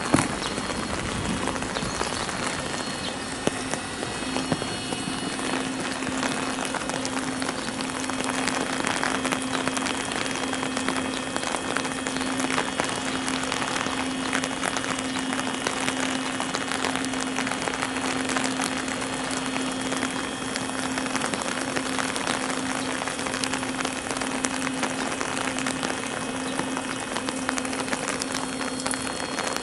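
Steady rain falling, with many close, fine drop ticks, over a steady low hum that comes in about a second in.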